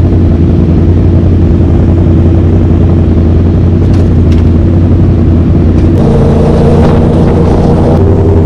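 Vehicle engines running steadily and loudly, with a second engine note joining about six seconds in.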